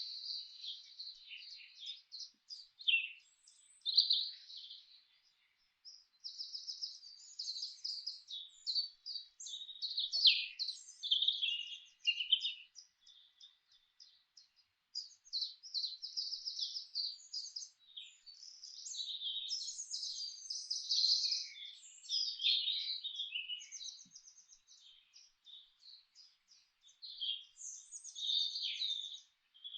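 Several songbirds singing over one another, a dense, high-pitched run of chirps and rapid trills with only brief pauses.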